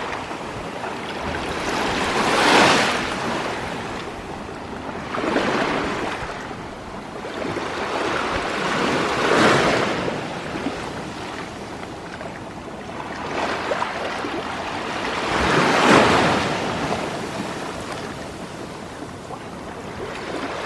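Sea waves washing in on a rocky shore. Four swells of surf come a few seconds apart, the loudest about three quarters of the way through.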